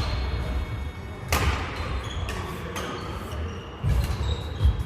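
A rally of men's doubles badminton: a sharp racket strike on the shuttlecock about a second in, then players' feet thudding on the court floor near the end, with short shoe squeaks in an echoing hall.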